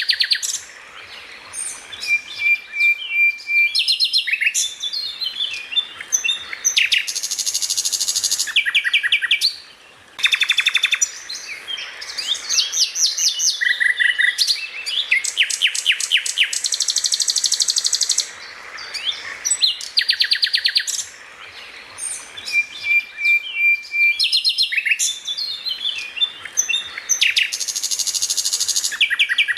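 A songbird singing a loud, varied song of fast rattling trills, sharp chirps and short held whistles, broken by brief pauses. The same phrases come back in the same order, like a looped birdsong training (masteran) recording.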